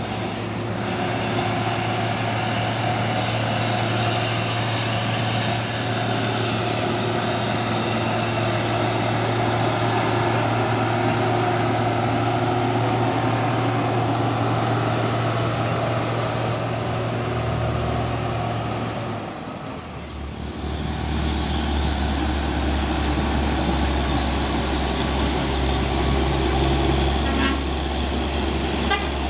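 Heavy truck diesel engine running steadily. About twenty seconds in the sound dips briefly and a deeper engine note takes over.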